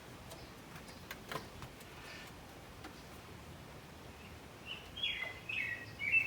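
A few faint taps, then a small bird chirping several short notes near the end over a low steady hum.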